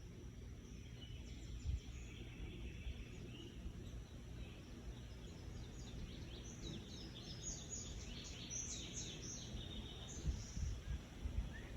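Bird calls: a run of short, quick high chirps that come thickest in the second half, over a steady low outdoor rumble.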